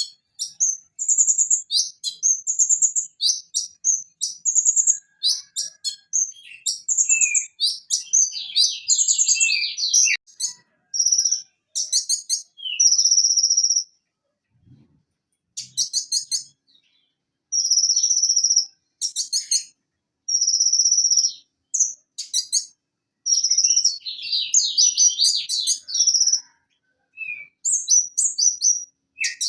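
Purple-throated sunbird (konin) singing: rapid high-pitched chirps and trills in quick phrases separated by short pauses, with a gap of about two seconds halfway through.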